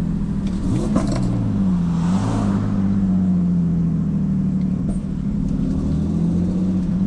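Turbocharged BMW E46 engine running at a fairly steady speed while the car drives, with slight dips in pitch about two seconds in and again near the end.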